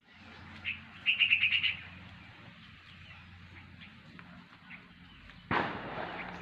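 Birds chirping: a single chirp, then a quick run of about eight rapid chirps about a second in, followed by scattered fainter chirps over a low steady hum. About five seconds in, a sudden noisy rush breaks in and fades away over about a second.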